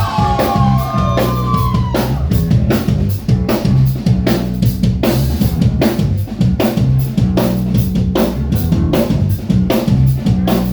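Live rock band playing an instrumental passage: a drum kit beating out a fast, steady rhythm over low bass notes, loud throughout.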